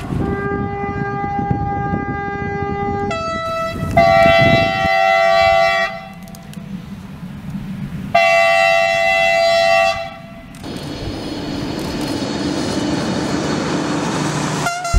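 Train's two-tone Makrofon air horn sounding: a long lower note, a short higher note, then two loud blasts about four seconds apart. Rumble of the moving train follows near the end.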